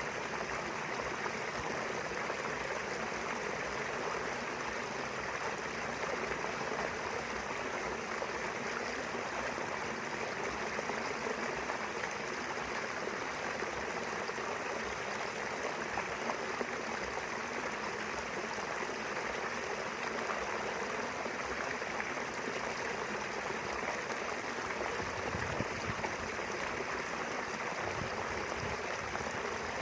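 A small river flowing steadily over stones, an even rushing and trickling of water.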